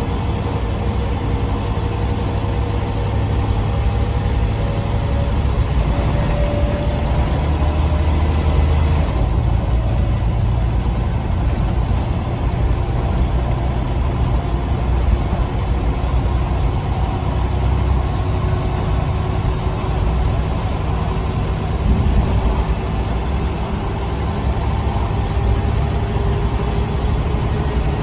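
Scania OmniCity bus's engine and ZF automatic gearbox heard from on board while driving, the engine note rising and falling gently, with a change in the low note about nine seconds in.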